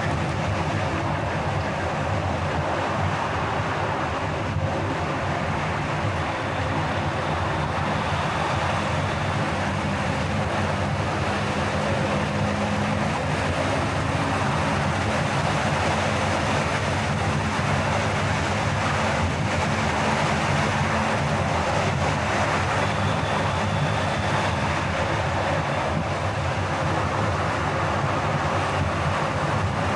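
Car driving along a road: a steady rumble of tyre and engine noise under an even hiss, unchanging throughout.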